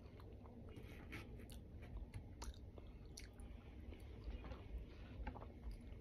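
A person chewing and biting juicy watermelon, with scattered short wet clicks throughout.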